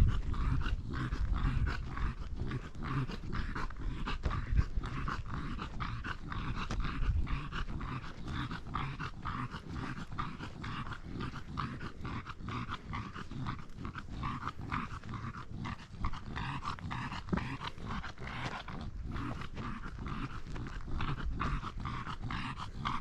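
A dog making a fast, steady run of short sounds that carries on with little change.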